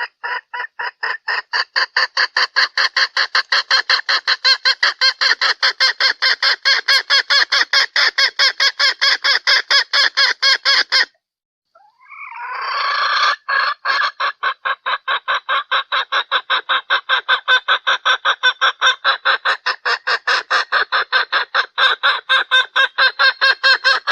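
Female red junglefowl call: a fast, even run of clucks, about four or five a second, in two long bouts with a break of about a second near the middle. It is the hen's call that draws in males, used here as a lure.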